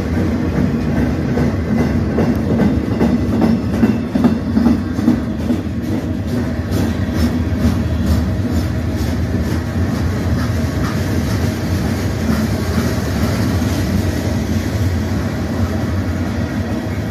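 Freight cars of a CN freight train rolling past in a steady rumble, with clicks of the wheels over the rail joints that are clearest around the middle.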